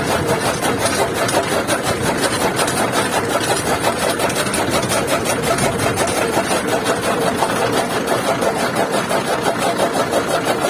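Massey Ferguson 240 tractor's diesel engine running steadily while it drives a chaff cutter chopping fodder, with a fast, even pulsing.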